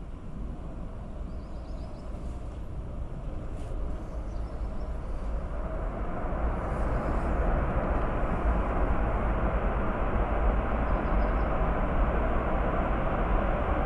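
Boeing 747-8 freighter's four GEnx jet engines as it lands, a steady jet roar that grows louder over the second half.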